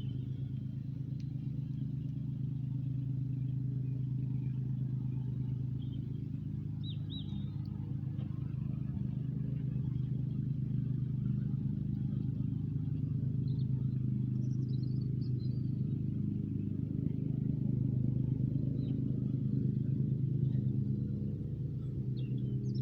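An engine running steadily at low, even speed with a deep hum, growing slightly louder in the second half.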